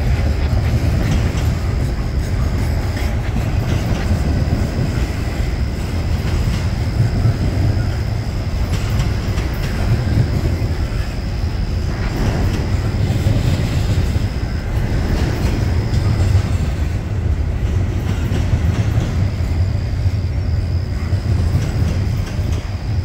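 Double-stack intermodal freight train rolling past close by: a steady rumble of the well cars' wheels on the rails. A thin high whine comes and goes over it.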